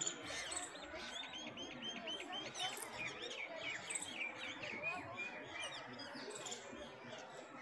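Several birds chirping and calling at once, with a quick run of repeated chirps from about one to three seconds in.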